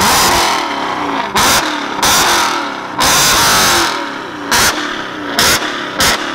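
BMW E92 M3's V8 being free-revved while parked: a few longer revs in the first four seconds, then short, sharp throttle blips about once a second.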